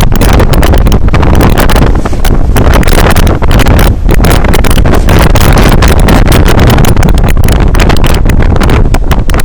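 Heavy wind buffeting the microphone on the roof of a moving bus: a loud, continuous, rough rumble that drowns out everything else.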